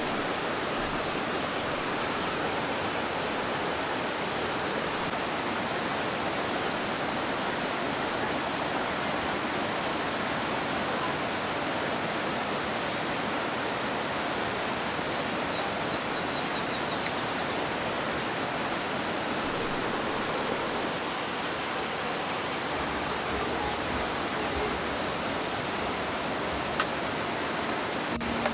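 Mountain valley stream running fast and high, swollen by rainy-season rain, a steady rushing of water. A faint short run of high chirps sounds about halfway through.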